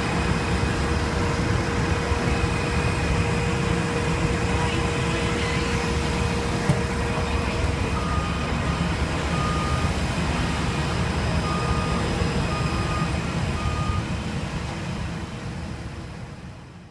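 Steady loud engine rumble with a faint hum. About halfway in, a reversing alarm gives a series of short, evenly pitched beeps about once a second for several seconds. Everything then fades out near the end.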